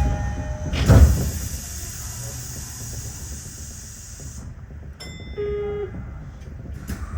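Tokyo Metro 15000 series train running through a tunnel, with a steady low rumble of wheels on rail. A loud thump comes about a second in, and a broad hiss cuts off suddenly about four seconds in.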